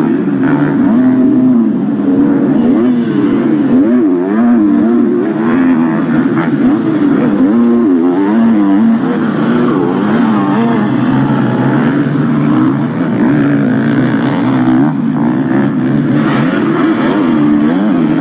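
Several 250cc motocross bikes racing, their engines revving up and down with the pitch rising and falling constantly as the riders work the throttle through the track.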